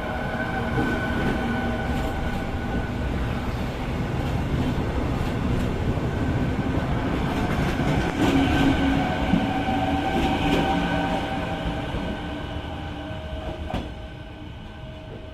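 Passenger train running on the rails: a steady rumble of wheels on track with a few faint held tones above it, swelling midway and fading off over the last few seconds.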